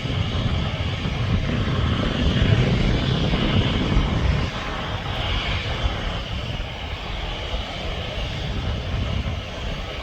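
Airplane engines running, a steady rushing noise that is loudest from about two to four seconds in and then eases off a little.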